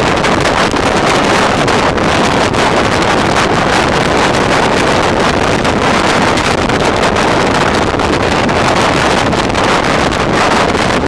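Steady rush of wind buffeting the microphone together with the running noise of trains at speed, heard from an open door or window of a moving passenger coach while a second train runs on the next track.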